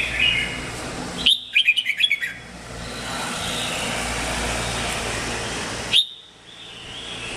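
Red-whiskered bulbul singing: a quick run of short whistled notes about a second in, then a single sharp note near the end, over a steady background hiss.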